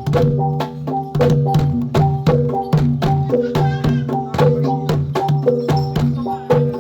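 Javanese gamelan accompaniment for jathilan playing a fast, steady rhythm: sharp kendang drum strokes over repeating ringing metal notes of the pitched instruments. A short wavering higher tone sounds near the middle.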